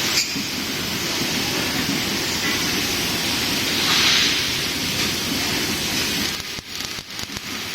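Steady hissing, crackling noise of a laser welding machine at work, dipping for about a second near the end.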